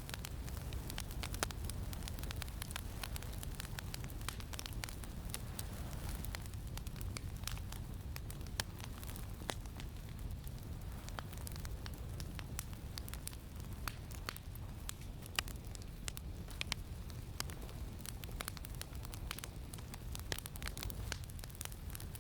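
Campfire crackling, with many small sharp pops at irregular intervals, over a steady low rumble of wind.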